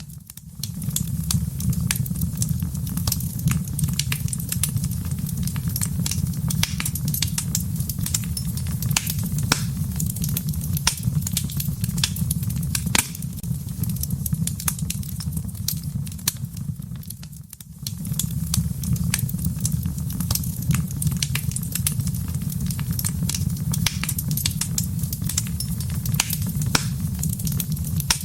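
Wood fire burning in a fireplace, crackling and popping continually over a steady low rumble of flame. Both drop away briefly about two-thirds of the way through.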